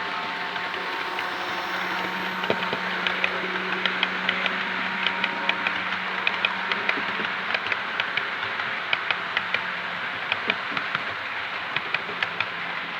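Model train running on the track of a model railway: a steady motor hum and wheel noise, with a string of sharp clicks as the wheels pass over the rail joints.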